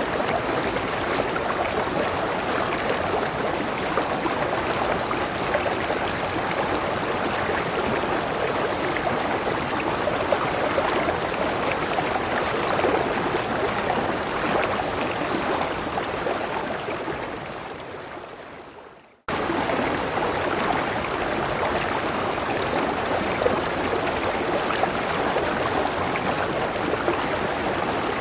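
River water rushing steadily in an even, full sound. Near the end of the first twenty seconds it fades away over about three seconds to silence, then comes straight back in at full level, as at the joint of a looped recording.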